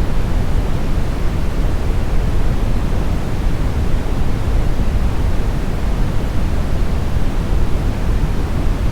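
Steady, unchanging brown noise: a continuous deep rushing hiss, heaviest in the low end and softened in the highs.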